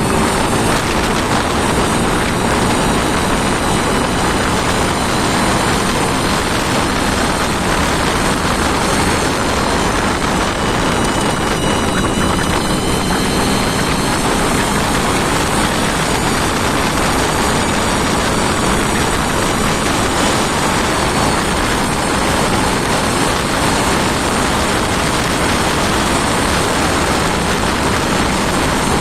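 An engine running steadily at a constant speed, loud and close, with a dense rushing noise and a faint high whine.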